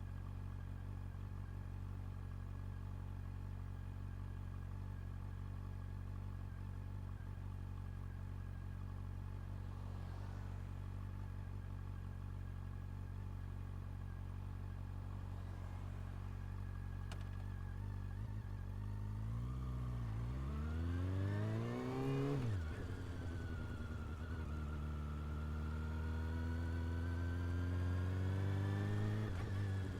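Honda CB400 Super Four's inline-four engine holding steady low revs for most of the time, then pulling away and accelerating, its exhaust note rising, dropping at a gear change about 22 seconds in, rising again and shifting once more near the end.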